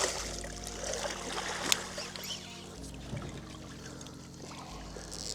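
Water trickling and splashing, with a single sharp click about a second and a half in, over steady low background tones.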